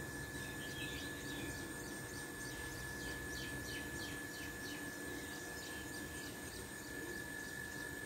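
A small bird chirping in quick repeated notes, about three a second, for several seconds and then stopping, over a steady outdoor background with a thin high whine.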